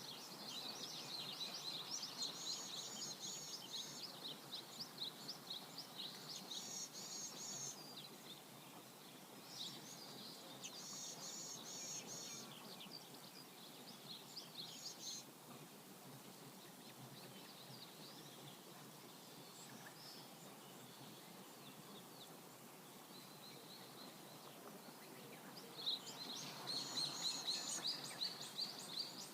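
River flowing with a steady rushing sound, while small birds chirp and twitter above it in bouts: busy for the first half, sparse in the middle, then busy again near the end.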